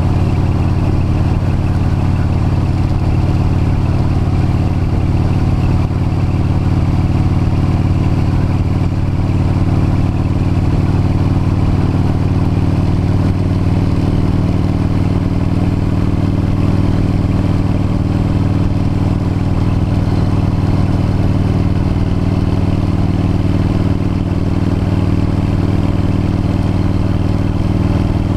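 V-twin cruiser motorcycle engine running steadily at road speed, its pitch holding nearly constant with only slight shifts.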